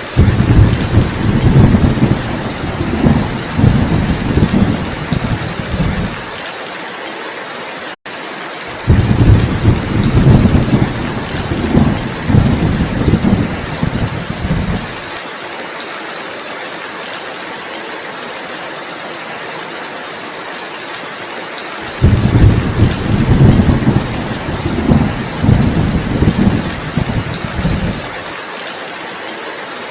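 Steady heavy rain hissing, with three long, low rolls of thunder: one at the start, another about nine seconds in, and a third about 22 seconds in, each lasting about six seconds.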